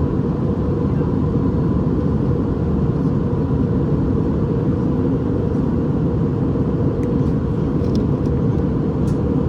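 Steady cabin noise inside an Airbus A319 in flight: engine and airflow noise, mostly low-pitched, with a faint steady whine above it.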